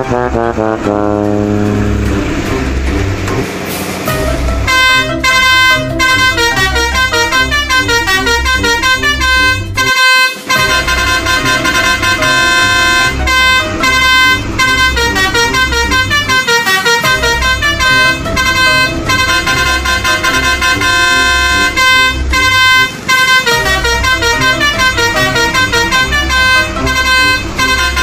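A fast tune played on multi-tone musical truck horns over a steady low thumping beat, starting about five seconds in after a falling sweep and noisy rush.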